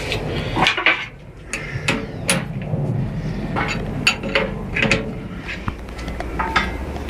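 Irregular metallic clinks and taps from fitting a gas regulator onto a gas cylinder for a patio heater, a dozen or so sharp knocks spread through the handling.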